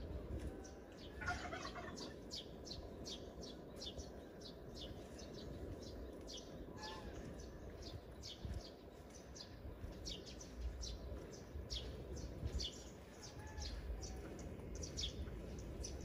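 Small birds chirping: many short, high, falling chirps, a couple each second, over a steady low background noise.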